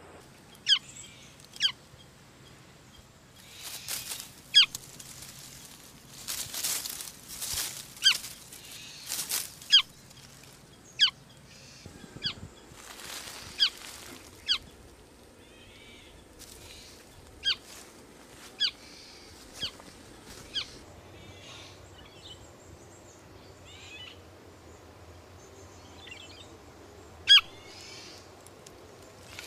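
A bird giving short, sharp calls that drop steeply in pitch, repeated about a dozen times at irregular intervals. Between about 3 and 10 seconds in come several bursts of rustling or wing flapping.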